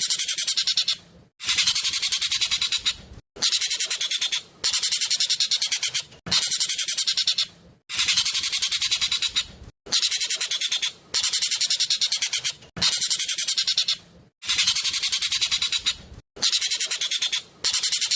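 Jovin (ekek keling) singing fast and loud: bursts of rapid, tightly packed high chattering notes, each about a second long, repeating with short pauses between them.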